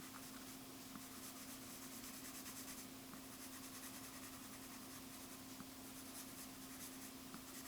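Faint scratching strokes of a drawing tool as the artist sketches, with an occasional small tick, over a steady low electrical hum.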